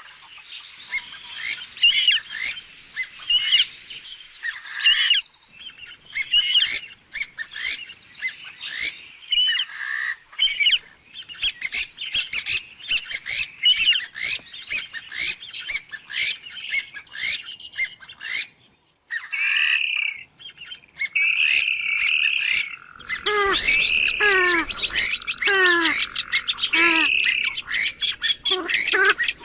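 Birds calling over one another: quick chirps and high whistles that sweep downward. About two-thirds of the way through, the sound changes to repeated falling calls that reach lower, with a faint steady whine behind them.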